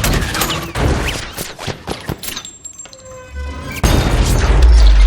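Frozen vault-door locking mechanism cracking apart as the ice inside it expands. A run of sharp metallic cracks and pops, then a heavy deep boom about four seconds in as the lock bursts, with film score music underneath.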